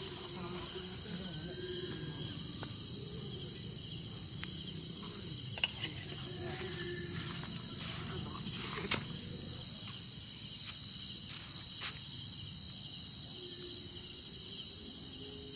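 Steady chorus of insects such as crickets: a high-pitched, evenly pulsing trill. A few sharp clicks stand out, about six and nine seconds in.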